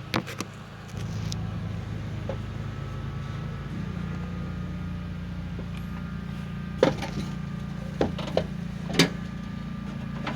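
Riding lawn mower's small gasoline engine running steadily. It gets louder about a second in, and a few sharp clicks or knocks come in the second half.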